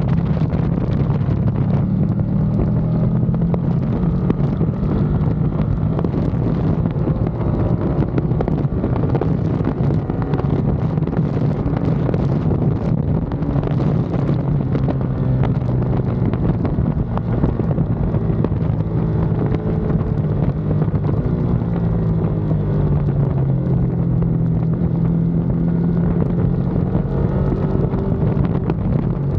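Ducati Panigale V2's 955 cc L-twin engine running hard on track, its revs rising and falling over and over as the bike accelerates and slows, with wind buffeting the microphone.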